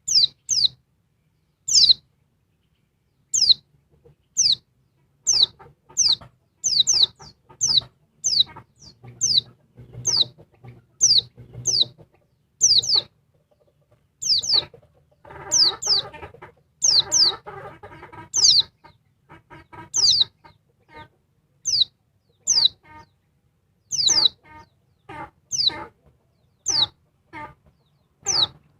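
Female white-eye (pleci) calling: short, high notes that slide downward, repeated one or two a second, sometimes in quick pairs. Lower, rougher calls from another bird sound beneath them, loudest around the middle.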